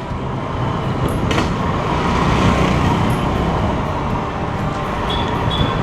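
Steady running and road noise of a motor scooter being ridden through traffic, with two short high tones near the end.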